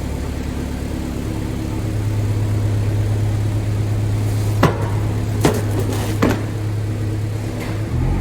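Honda CR-V's four-cylinder engine idling steadily with a low even hum. Three sharp clicks come in the middle, about five, five and a half, and six seconds in.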